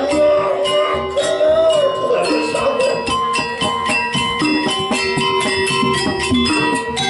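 Balinese gamelan playing: metal percussion struck in a fast, dense pattern of short ringing notes over sustained ringing tones.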